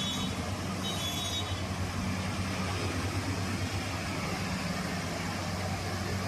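Maxxi Bimo combine harvester running steadily at work with an even engine drone. A brief, thin high tone sounds about a second in.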